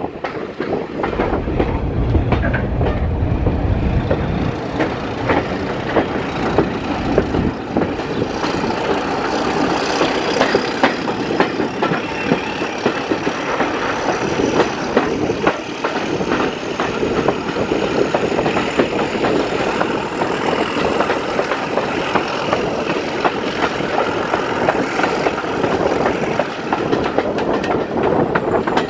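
A British Rail Mk1 passenger coach running along the line, with a steady rumble and wheels clicking over the rail joints. A faint high whine slowly rises in pitch through most of the stretch and drops off near the end.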